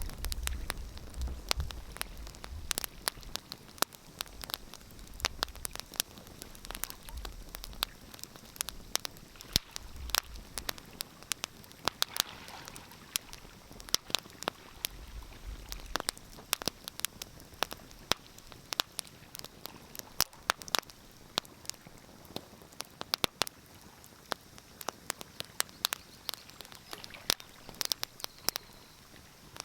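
Wood fire in a fireplace crackling, with frequent irregular sharp pops and snaps over a soft hiss. A faint low rumble comes and goes in the first half.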